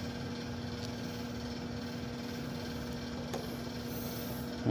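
Steady machinery hum with a constant low tone, and a faint click about three seconds in.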